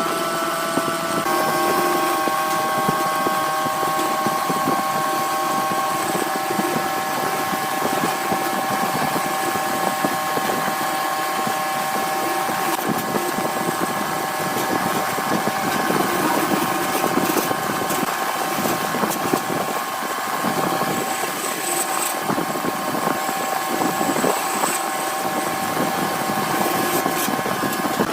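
Wood lathe running: a steady motor whine made of several tones that shift slightly about a second in, over a rough hiss from the work on the spinning piece.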